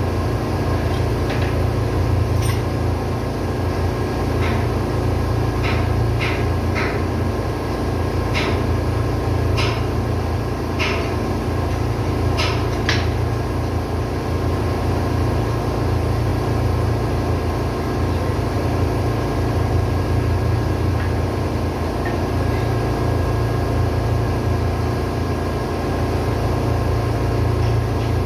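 Marine diesel engine running steadily in a ship's engine room, a loud even drone with a low hum and steady tones. A scattering of sharp clicks or taps sounds through the first half.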